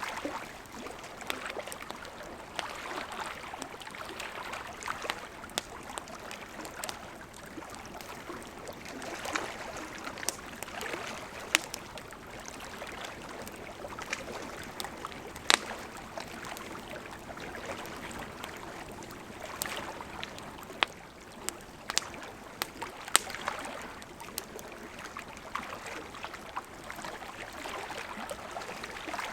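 Campfire crackling, with scattered sharp pops, over small lake waves lapping at the shore in soft washes that come and go.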